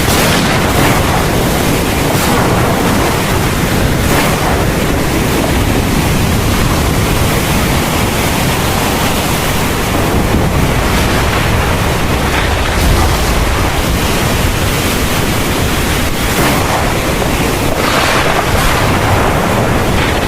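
Heavy thunderstorm rain pouring steadily, with a low rumble of thunder underneath that swells about two-thirds of the way in and again near the end.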